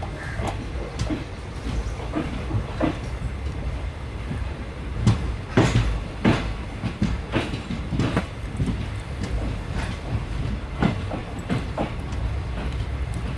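Train running on the rails, heard from inside a carriage: a steady low rumble with irregular clicks and knocks from the wheels, the loudest cluster of knocks about five to six seconds in.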